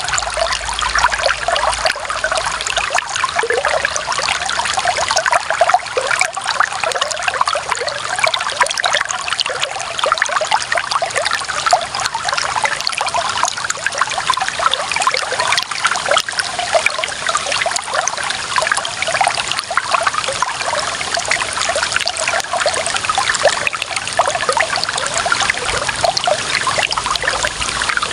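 Clear running water trickling and splashing steadily, a dense bubbling patter with no pauses.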